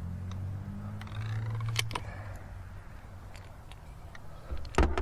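Handling noises from crossbow gear: scattered light clicks, a sharper click about two seconds in and a quick cluster of loud sharp clicks near the end, over a low hum.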